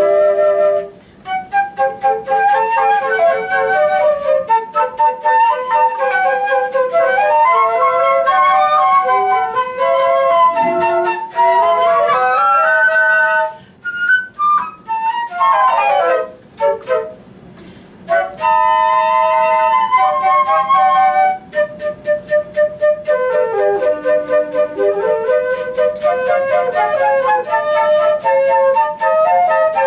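Flute music: a lively melody with quick runs and several parts sounding together, pausing briefly twice about halfway through.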